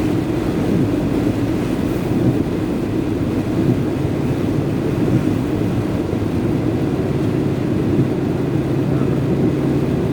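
Steady engine drone and tyre noise of a vehicle travelling on a rain-wet highway.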